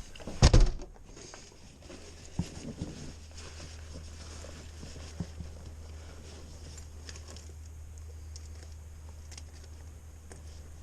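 A loud thunk about half a second in, then a few lighter knocks and a steady low rumble.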